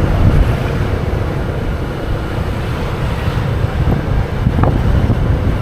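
Wind noise on the microphone of a moving motorbike: a steady low rumble of air rushing past, with the ride's vehicle noise underneath.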